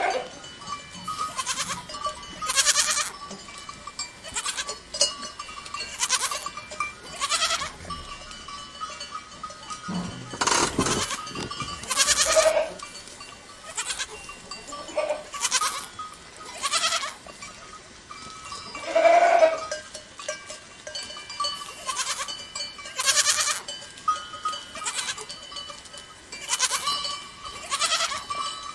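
Goats bleating now and then, with bells clanking irregularly about once a second. The clearest bleats come about twelve and nineteen seconds in.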